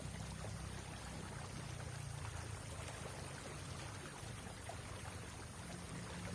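River water flowing steadily, with a faint steady high tone above it.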